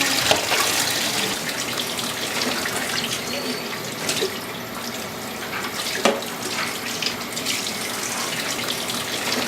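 Water running from a tap into a sink while dishes are washed, with a few sharp clinks, the loudest about six seconds in.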